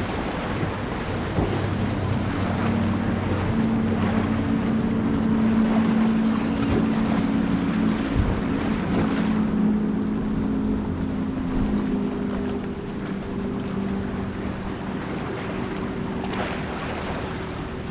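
Motorboat engine droning, building a few seconds in, strongest midway, then thinning, over wind on the microphone and surf.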